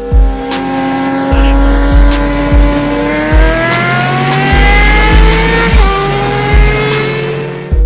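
Motorcycle engine accelerating hard, its pitch climbing steadily for several seconds, with a brief dip about six seconds in before it carries on. A music track's low thudding beat continues underneath.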